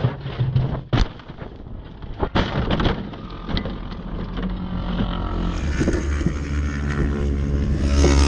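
A few sharp knocks in the first couple of seconds, then race motorcycle engine noise that builds from about three seconds in and grows louder toward the end.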